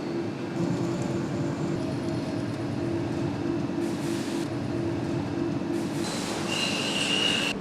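Machinery running with a steady hum and rumble, and a short high-pitched squeal near the end.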